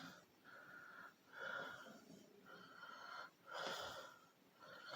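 Faint wheezy breathing close to the microphone, about five soft breaths, roughly one a second.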